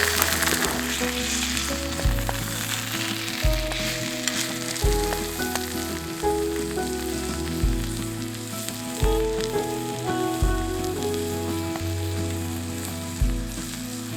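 Beef steak sizzling and crackling as it cooks over a campfire, heard under instrumental background music with a slow-changing bass line.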